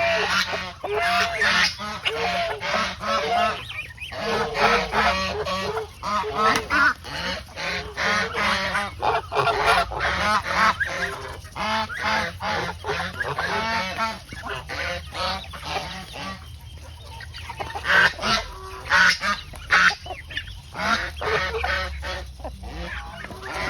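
A flock of geese honking, many calls overlapping almost without pause, with a short lull about two-thirds of the way through.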